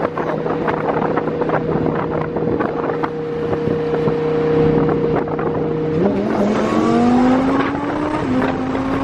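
Twin-turbo 5.2-litre V10 of a Lamborghini Huracan, heard from inside the cabin, holding a steady engine note for about six seconds. The note then jumps and climbs in pitch as the car accelerates hard, dipping briefly about eight seconds in, then climbing again. Wind and road noise run underneath.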